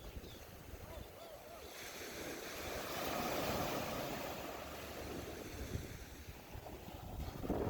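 Surf washing onto the beach, swelling to a peak about three seconds in and then falling away, with wind rumbling on the microphone.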